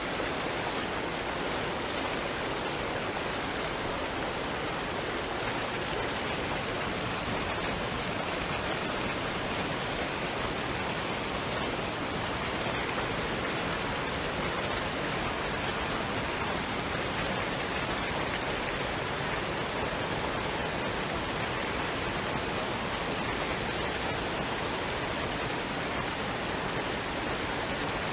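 Waterfall and stream water running, a steady, even rushing with no breaks or changes.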